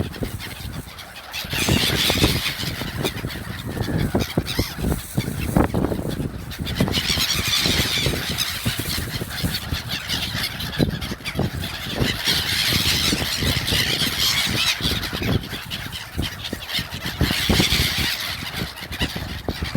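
A flock of birds calling all at once, a dense, continuous chorus of squealing, honking calls.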